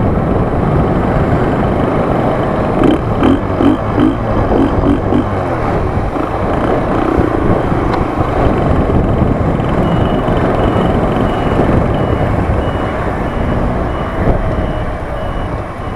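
Small moped engine running under way with heavy wind rush over the microphone, the engine note pulsing as the throttle changes early on. From about ten seconds in, a regular high beeping repeats about twice a second.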